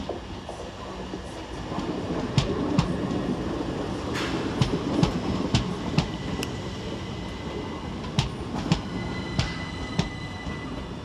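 Southern Class 377 Electrostar electric multiple unit pulling slowly into the platform. A steady rumble builds in the first seconds, with a dozen or so irregular sharp clicks from the wheels on the track and a thin high squeal in the last few seconds as it slows.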